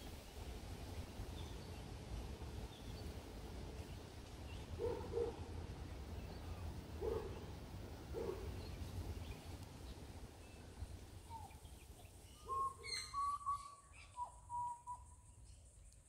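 Birds calling: a few short, low hooting notes, each doubled, around the middle, then higher whistled notes in the last few seconds, over a steady low rumble.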